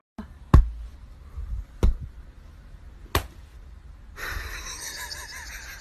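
Three sharp thumps, a little over a second apart, over a low rumble; then a steady hiss sets in about four seconds in.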